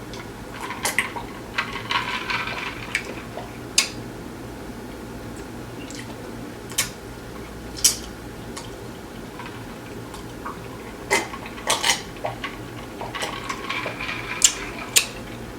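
Hard-shell tacos being eaten and handled: scattered sharp crunches and clicks, a few crackly stretches, and light clinks of dishes, over a steady low room hum.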